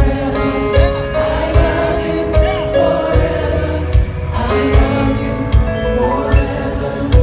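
Live gospel band music: held keyboard chords over a steady drum beat, with choir voices singing.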